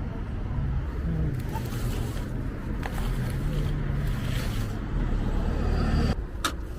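A vehicle engine running with a low, steady rumble that cuts off abruptly about six seconds in, followed by a single sharp click.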